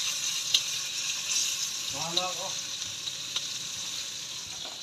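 Tomatoes and egg frying in a pan, a steady sizzle with a few light clicks. A short voice sound comes about two seconds in.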